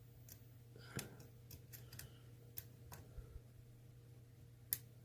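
Faint, irregular metallic clicks and ticks of a hook pick working the spool-pin stacks of an ASSA Twin lock under hard tension, with one sharper click just before the end, the kind heard as driver pins set.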